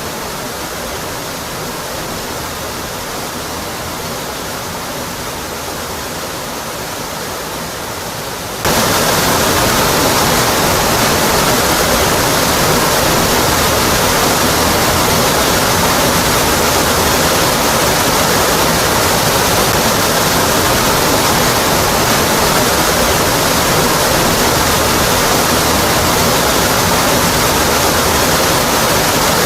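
Waterfall with a steady, full rush of falling water. About nine seconds in it jumps abruptly louder and brighter, then runs steadily on.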